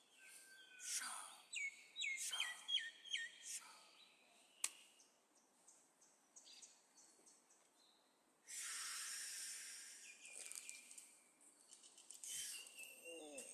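Birds chirping in short, repeated, falling notes, with a brief rushing hiss about two-thirds of the way through.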